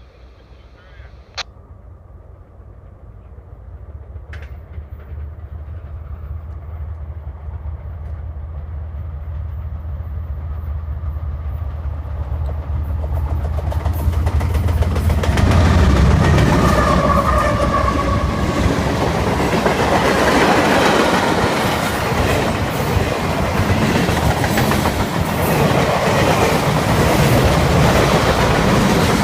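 A CSX train's diesel locomotive approaching, its low rumble growing steadily louder for about fifteen seconds. Then the train passes close by and the cars roll past with loud, steady wheel-on-rail noise.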